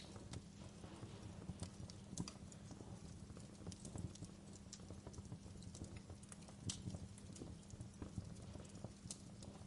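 Wood fire burning in a fireplace: burning logs crackling and popping in irregular sharp snaps, a couple of them louder, over a low steady rumble of the flames.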